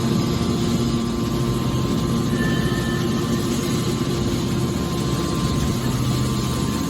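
Hydraulic scrap can baler running, a steady machine hum with a few constant tones from its motor and hydraulic pump.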